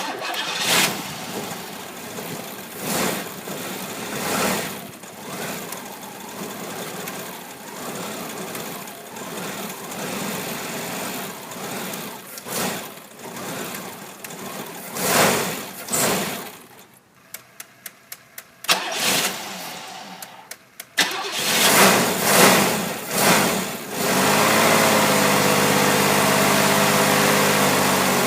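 1990 Cadillac engine being cranked after sitting unused for a while, surging and faltering in repeated attempts to catch, with a run of quick clicks partway through. Near the end it catches, revs briefly and settles into a steady idle.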